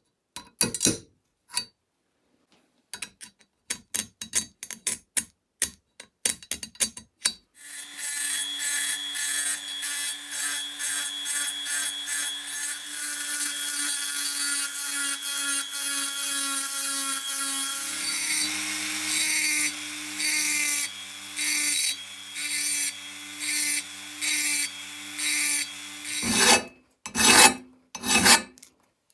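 Hand file or rasp strokes on a workpiece, then an electric power tool runs with a steady motor whine for about ten seconds. The tool's sound changes and comes in rhythmic strokes for several more seconds. It stops about three seconds before the end, and hand filing strokes resume.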